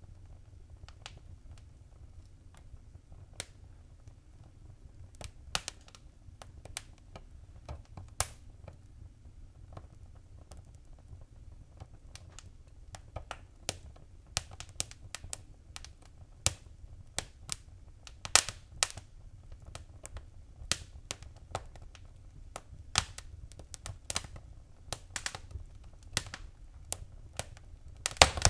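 Wood fire crackling in a fireplace: irregular sharp snaps and pops over a steady low rumble, the snaps coming more often from about halfway on.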